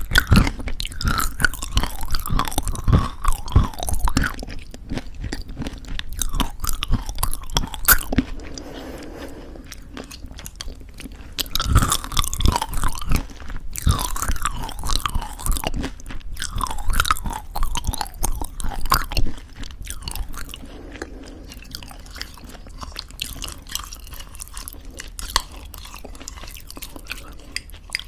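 Close-miked crunching and chewing of homemade granola in thick yogurt. Dense runs of crisp bites alternate with softer, sparser chewing, which is quietest in the last third.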